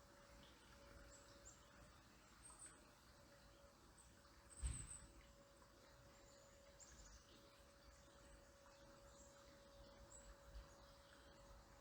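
Near silence with faint, short, high bird chirps scattered throughout. There is one soft low thump about halfway through.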